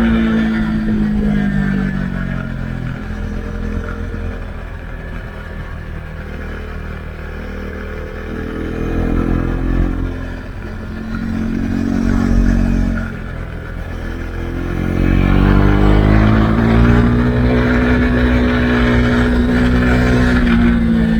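Husqvarna Svartpilen 401's single-cylinder engine through an Akrapovic exhaust with the dB killer removed. The revs fall away at first, then pick up and drop in two short pulls through the middle. About two-thirds of the way through they climb again and hold high.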